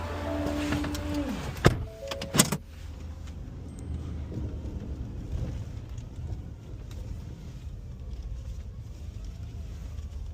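Ford F-550 rear-loader garbage truck's engine running with a steady low rumble. A whine winds down and stops about a second in, followed by two sharp knocks.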